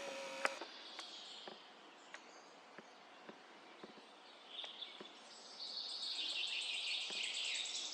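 Forest birds singing in a morning chorus: quieter phrases at first, then a song swells from about halfway through and ends in a fast, high trill. Faint scattered clicks are heard throughout.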